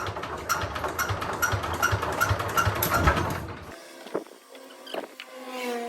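Small diesel engine running slowly with an even knock, about two to three beats a second, which stops abruptly past halfway; a quieter steady hum with a few clear tones follows.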